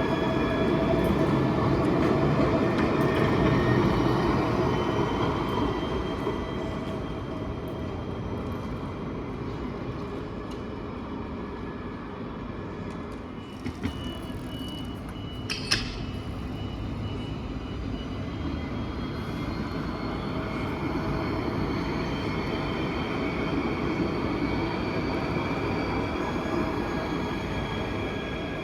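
Tram running, the whine of its electric traction motors in several slowly gliding tones over the rumble of wheels on rail. It is louder at first, eases off by the middle and builds again toward the end, with a sharp click about sixteen seconds in.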